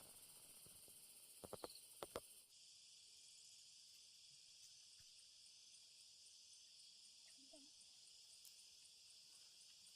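Faint, steady high-pitched chirring of night crickets. A few sharp clicks come between one and a half and two seconds in.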